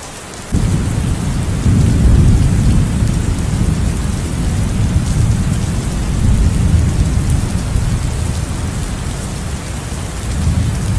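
Steady rain with a loud roll of thunder that breaks in suddenly about half a second in, swells about a second later and rumbles on.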